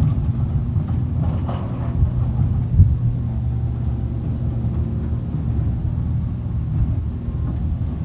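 Garbage truck's diesel engine running steadily with a low rumble, with a brief knock about three seconds in.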